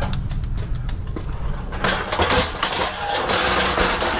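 A truck engine idling with a steady low rumble, under scattered clicks and knocks. About halfway through comes a loud, dense rattling scrape of metal handling, which lasts until just after the end.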